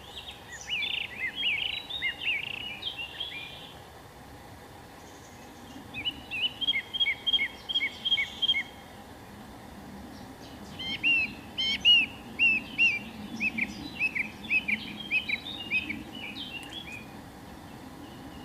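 A songbird singing in three bouts of quick, repeated high chirps, with short pauses between the bouts, over a steady low outdoor hiss.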